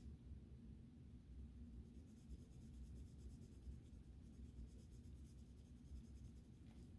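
Faint scratching of coloring strokes on sketchbook paper, over a low steady room hum.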